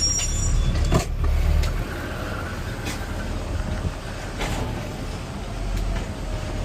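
Garbage truck engine running steadily, with a few sharp clanks about one, three and four and a half seconds in as a trash can is picked up and emptied.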